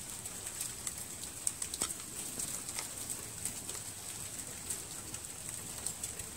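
Scattered light clicks and taps from small carburetor parts being handled as the float bowl and gasket come off a Briggs & Stratton Quantum carburetor, over a steady high-pitched hiss.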